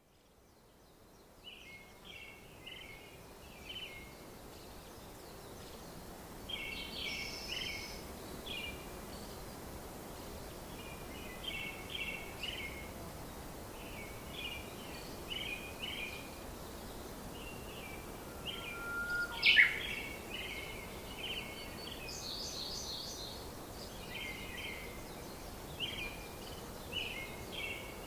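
Small birds chirping in short, repeated bursts of a few notes each, over a steady background hiss. About two-thirds of the way through comes one sharper, louder chirp, the loudest sound here.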